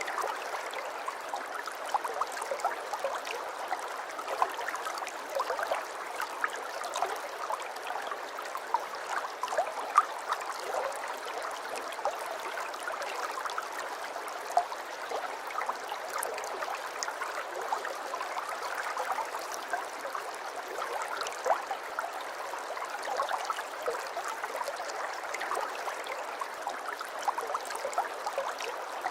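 Aquarium water trickling and bubbling steadily, with many small plops and pops scattered throughout.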